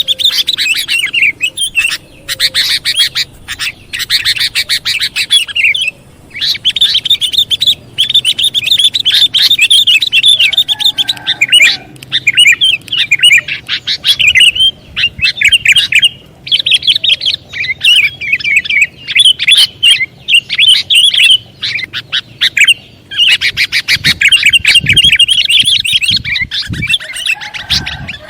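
Sooty-headed bulbul (kutilang) calling in a lure recording: rapid, high chattering chirps in long runs, broken by short pauses every few seconds.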